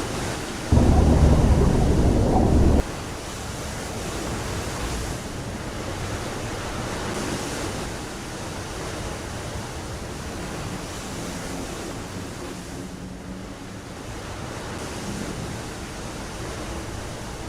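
Steady rushing noise of sea and wind. Near the start there is one loud low blast, about two seconds long, that starts and stops abruptly.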